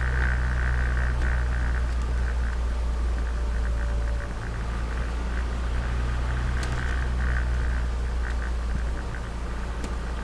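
Turbocharged Nissan Micra engine running while driving, a steady low drone over road noise and hiss, with small ticks and rattles now and then; the drone drops slightly about four seconds in.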